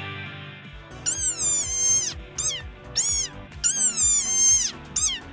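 Fox calling with a series of short, high whines, each rising and then falling in pitch, like a baby's cry. This is the sound foxes make when they are happy. The calls start about a second in and come one or two a second over background music.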